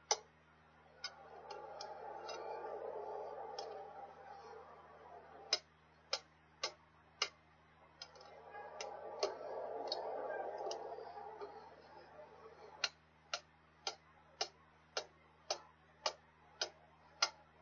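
Hammer blows on a steel tire-chain repair link, striking at a steady pace of about two a second, beating the link closed on a big-rig snow chain still on the tire. Twice a broad rushing noise swells and fades under the strikes.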